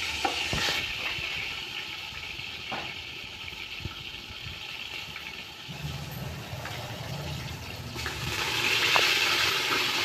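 Ginger-garlic paste and spices sizzling in hot oil in an aluminium cooking pot as the masala is fried, with a wooden spoon stirring and knocking against the pot a few times early on. The sizzle grows louder near the end, and a low hum sets in about six seconds in.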